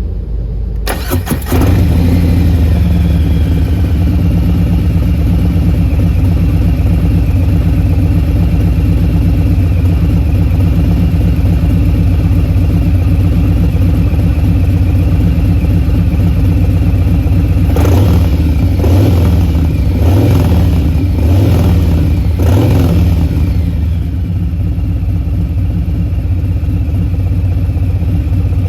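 Harley-Davidson Low Rider S Milwaukee-Eight 114 V-twin, through a Bassani Short Ripper 2-into-1 exhaust, started on the electric starter and settling into a steady idle. About two-thirds of the way through it is given four or five short throttle blips, then it returns to idle.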